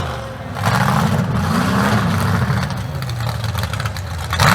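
Mega mud truck's engine revving, its pitch climbing and dropping repeatedly, starting about half a second in.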